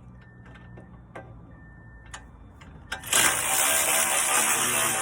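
A few light clicks and taps, then about three seconds in a loud, steady hiss starts suddenly and keeps going.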